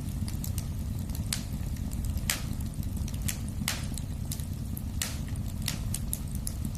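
Wood fire in a fireplace burning with a steady low rumble, crackling with many small sharp clicks and a louder pop about every second.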